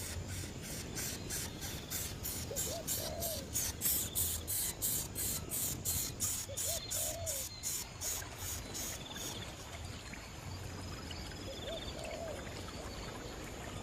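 An insect chirping in fast, even pulses, about three a second, that stop about nine seconds in, over a steady high whine. A short, low bird call comes every four or five seconds.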